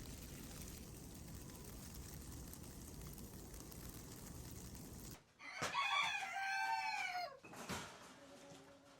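A steady low rumbling noise that cuts off about five seconds in, then a rooster crows once, a long rising-and-falling call of nearly two seconds, followed by fainter calls from the flock.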